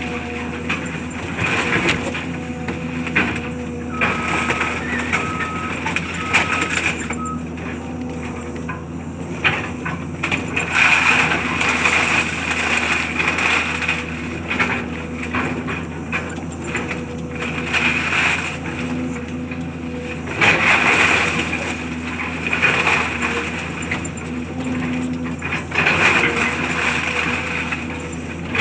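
Heavy demolition machinery running steadily, with repeated surges of crunching and scraping debris. A run of about four short beeps sounds a few seconds in.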